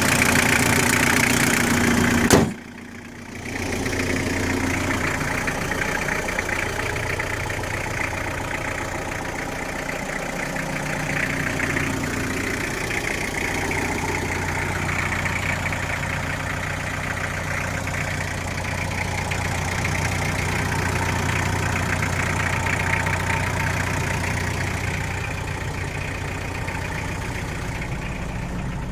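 Toyota Blizzard engine running steadily at idle. About two and a half seconds in there is a sharp click, and the sound drops out for about a second before the steady idle returns.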